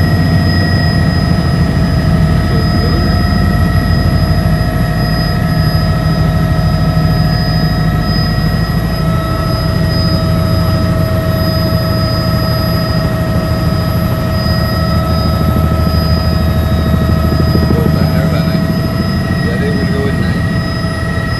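Helicopter in flight: a steady, loud drone from the rotor and engine, with several constant high-pitched whines on top.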